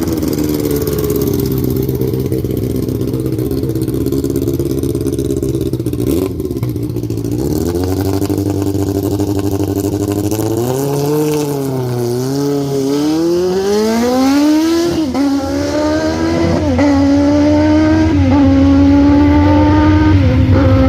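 Drag-racing motorcycle engine running loud and steady, then revving up and down before pulling hard, its pitch climbing and dropping sharply at two gear shifts near the end.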